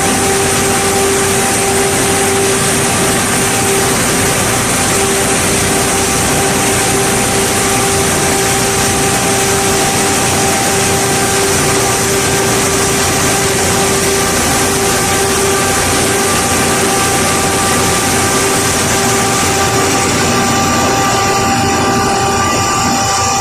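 Plastic film recycling washing line running: a loud, steady machinery din with a constant hum from its motors.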